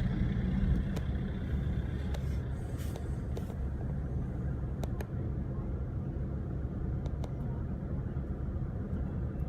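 A car driving: a steady low engine and road rumble, with a few faint clicks.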